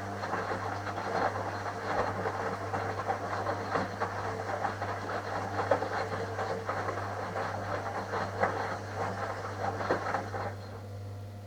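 Washing machine drum turning: a dense, steady rattling churn over a steady low hum. The churning stops near the end, leaving only the hum.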